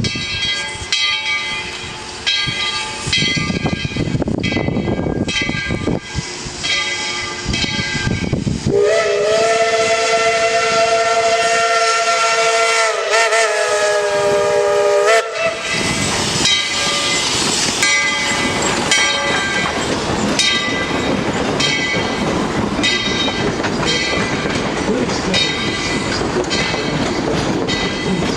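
ET&WNC No. 12 steam locomotive and its train running with a rhythmic clatter. About nine seconds in, its steam whistle sounds one long chord of several tones for about six seconds, wavering briefly near the end of the blast. The train then carries on running.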